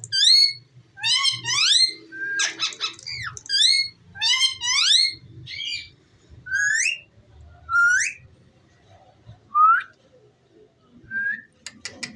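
Indian ringneck parrot giving a run of short rising whistled calls, bunched closely at first, with a harsher squawk about three seconds in; the calls come more sparsely toward the end.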